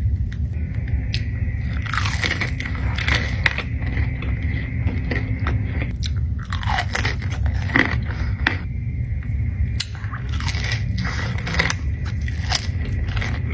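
Close-miked eating of crunchy food: a run of crisp, crackling bites and chewing, with a steady low hum underneath.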